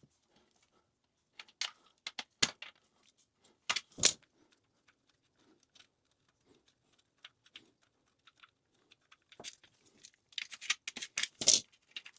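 Scattered sharp metallic clicks and scrapes, with a busier run of clinking near the end, as old rusted closet bolts are worked out of the toilet flange.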